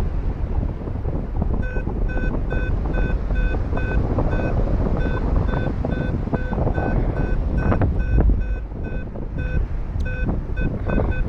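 Paragliding variometer beeping in short high pulses about three times a second, the sign that the glider is climbing in lift, over heavy wind noise on the microphone. The beeping starts about two seconds in and pauses briefly near the end.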